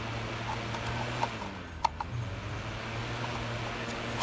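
Holmes Blizzard desk fan running steadily: a low motor hum under an even rush of air from the blades, with a couple of faint clicks in the middle.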